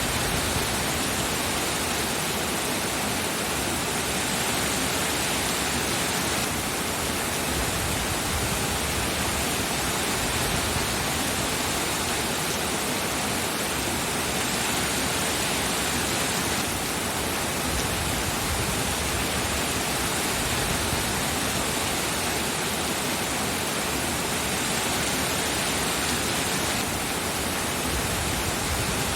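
Steady heavy rain, an even continuous hiss with no single drops, thunder or other events standing out.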